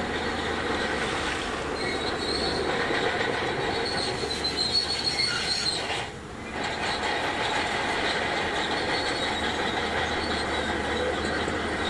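Shantui DH17C2 crawler bulldozer running as it works over stone, its steel tracks giving a steady high squeal over the engine; the sound dips briefly about six seconds in.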